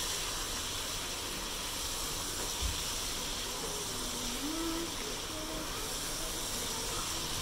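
Chicken pieces sizzling steadily as they fry in oil in a non-stick pan, stirred with a silicone spatula. There is a soft bump about two and a half seconds in.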